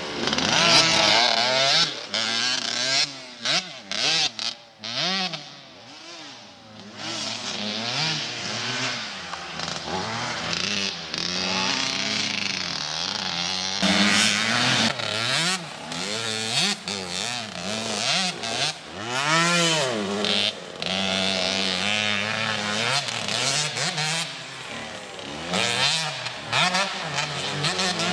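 A mini motocross dirt bike's engine revving up and down over and over as it is ridden around the track, its pitch climbing and dropping with each throttle burst. It fades for a few seconds early on, then comes back louder.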